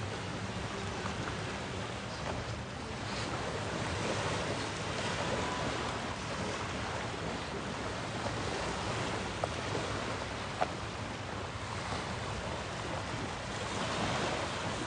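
Sea waves washing onto the beach, the surf swelling and easing, with wind rumbling on the microphone. Two small clicks about two-thirds of the way through.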